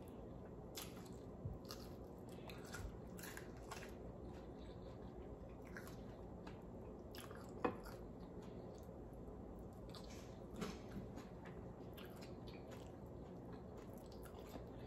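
Close-up eating sounds: faint chewing with small wet clicks and crunches as fried fish is eaten and picked apart by hand, with one louder click about halfway through.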